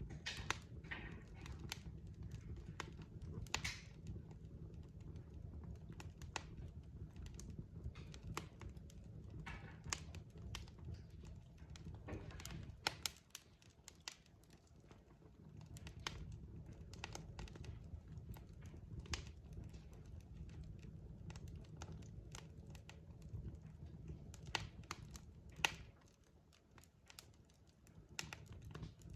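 Wood fire crackling: scattered sharp pops and snaps from burning logs over a low rumble of the flames. The rumble drops away for a couple of seconds about halfway through and again near the end.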